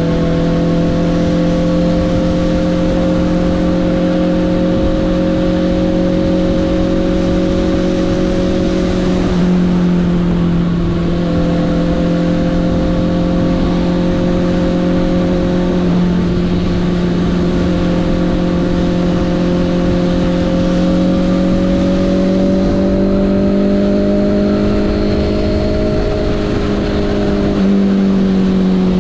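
Honda CB650R's inline-four engine running steadily while riding, its note holding nearly level and easing slowly upward in the second half, over a constant rush of wind and road noise.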